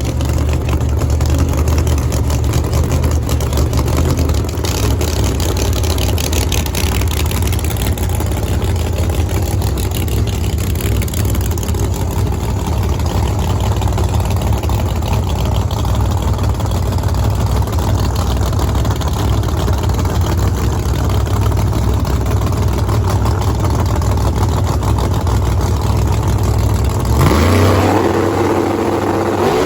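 No-prep drag racing cars' V8 engines running at a loud, lumpy idle, a heavy rumble. Near the end one engine revs up with a steadily rising pitch as the car accelerates.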